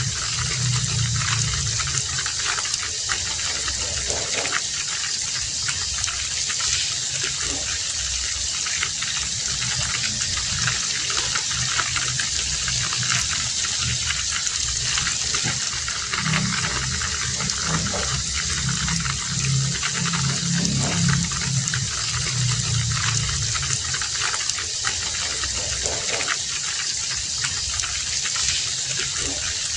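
Heavy rain falling steadily, a dense patter of drops, with a low rumble that swells and fades now and then.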